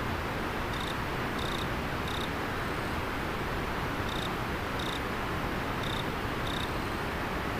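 River water flowing steadily, with an insect giving about seven short, high chirps in groups of three, two and two.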